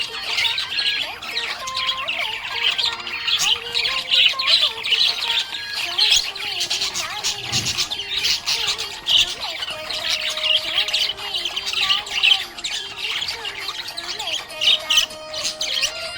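Budgies (budgerigars) chirping and chattering without pause, a dense stream of quick, high chirps and squawks.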